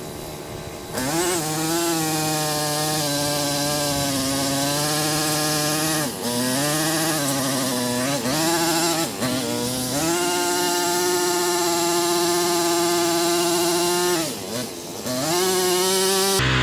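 Gas tiller engine running under load as the tines dig into the soil. Its pitch sags and recovers several times as it bogs and picks back up.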